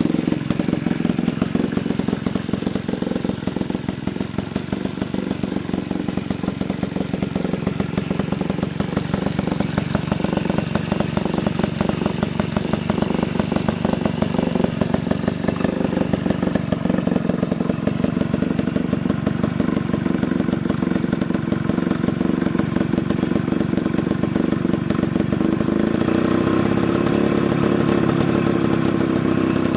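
Danarm MKI two-man chainsaw's engine running steadily at idle, with rapid even firing. Near the end it runs a little faster and more evenly.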